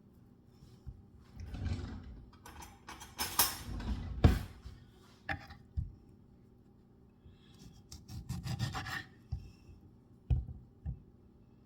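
Kitchen handling sounds: several short bouts of rubbing and rasping, with a few light knocks in between.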